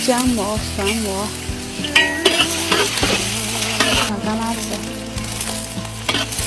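Minced ginger sizzling in hot oil in a wok, stirred and scraped with a metal spatula, with chopped red chillies added near the end.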